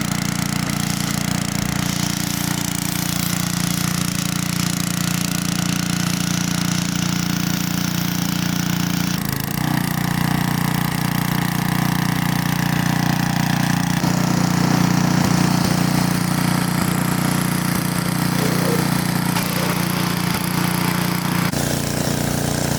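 A loud, steady motor or engine drone, low-pitched and unbroken, whose tone shifts slightly a few times along the way.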